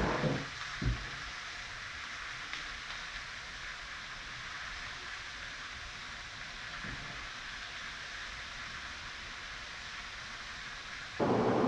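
Beef liver, carrots and onions sizzling steadily in a stainless steel pan, with a few soft knocks in the first second. The sizzle turns louder and fuller near the end.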